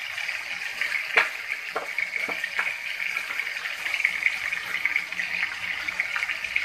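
Onion-and-tomato masala with red chilli flakes sizzling steadily in hot oil in a wok. A few sharp clicks come in the first three seconds.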